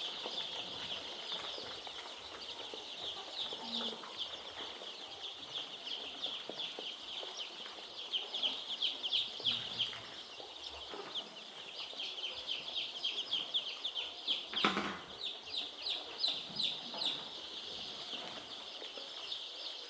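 A large flock of young chicks peeping continuously, a dense chorus of short high chirps. A single knock about three-quarters of the way through.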